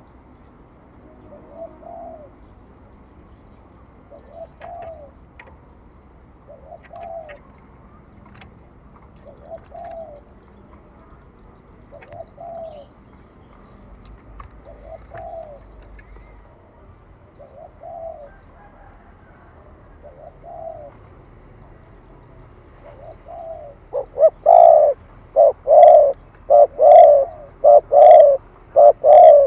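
Spotted dove cooing in the rapid 'thổ thúc gù' call: soft coos every two to three seconds, then from about 24 s in a much louder, fast run of coos about two a second. This is the call used to rouse decoy birds.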